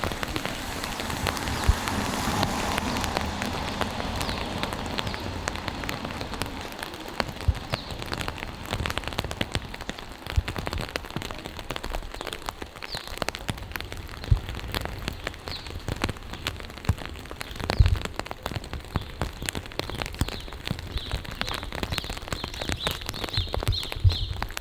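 Rain falling, with many close drops ticking sharply on surfaces. A broader rushing noise swells over the first few seconds and then fades.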